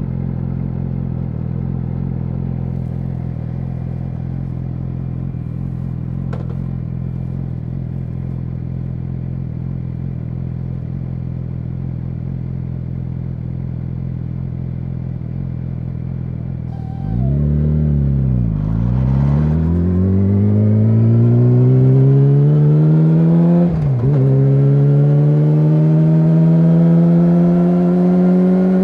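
Yamaha YZF-R6's inline-four engine with an SC-Project SC1-R exhaust idling steadily, then, past the middle, pulling away and accelerating. Its pitch climbs in long sweeps, broken by a brief dip at each of two upshifts.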